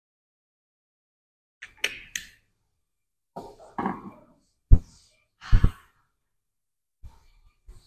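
Gym equipment knocking and thumping several times in short, separate hits; the two loudest are dull, low thumps about halfway through.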